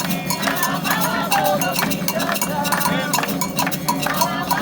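Candomblé ritual music: voices chanting over rapid hand-drum strikes and a struck metal bell.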